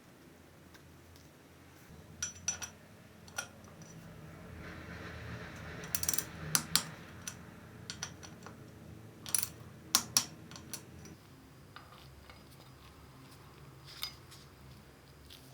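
Bicycle parts and tools clinking and tapping, about a dozen sharp metallic clicks at irregular intervals, over a low hum that stops about two-thirds of the way through.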